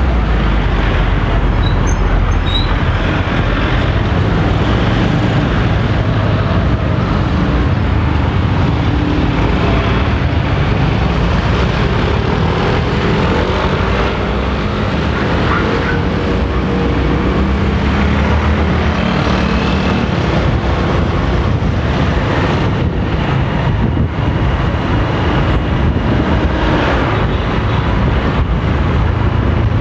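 Honda motorcycle engine running steadily as the bike rides along a street, heard from the rider's seat.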